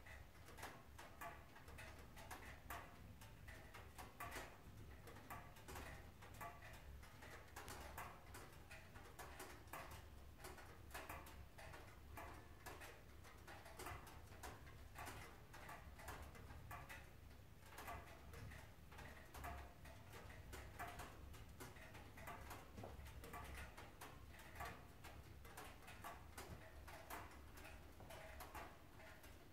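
Faint, irregular crackling and ticking from a wood fire burning in a closed stove, with a low steady hum underneath.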